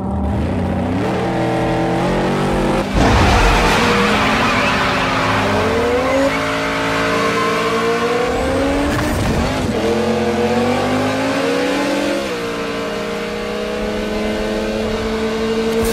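Car engine accelerating hard through the gears: its pitch climbs, drops back at each shift and climbs again. A burst of tyre noise starts about three seconds in.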